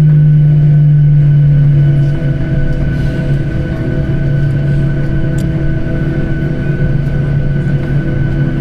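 Airliner cabin noise: a steady mechanical hum with several steady whining tones. The loudest low drone eases about two seconds in.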